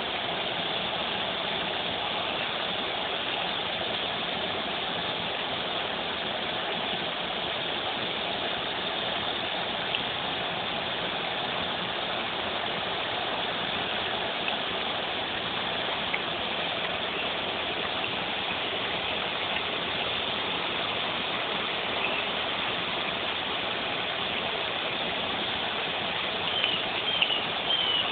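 A steady, dense chorus of cicadas droning, with a few short, high falling chirps near the end.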